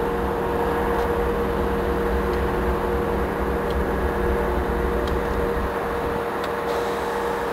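Approaching BNSF freight train heard from a distance: a steady rumble and hiss with a steady hum running through it, and a low rumble underneath that eases about six seconds in.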